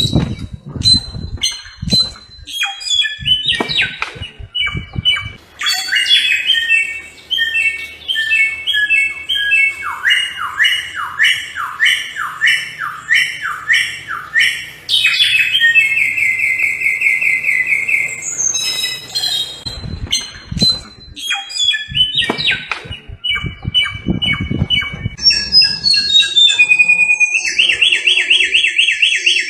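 A samyong, an Indonesian endemic songbird, singing a varied, continuous song of clear whistled notes, quick series of down-slurred notes and fast rattling trills, with some harsh call notes mixed in.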